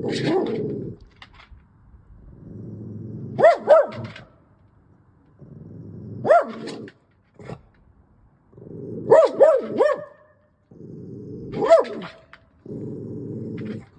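A dog growling low and steadily, breaking into sharp barks: a single bark, then a pair, another single, a quick run of three and a final one. This is alarm barking at a fox.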